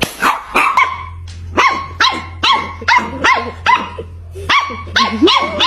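A dog barking repeatedly: a rapid string of about a dozen short, high-pitched barks with a couple of brief pauses.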